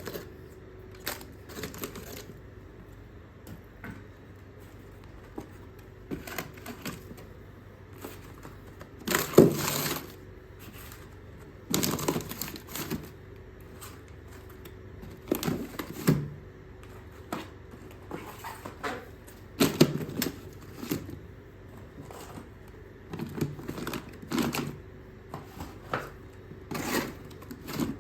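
Groceries being handled and put into a mini fridge freezer: irregular knocks, clicks and packaging rustles, with the loudest clatters about a third of the way in and again about two-thirds in. A faint steady hum runs underneath.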